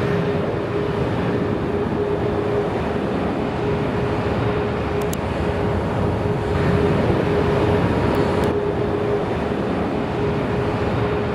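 Jet airliner engines running loud and steady: a broad rumble with one constant hum held above it.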